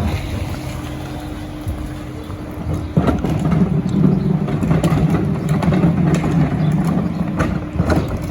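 Heil Dura-Pack rear-loader garbage truck running with a steady hum, punctuated by a few sharp knocks. A sharp knock about three seconds in, then the truck's engine runs louder for about four seconds before easing off.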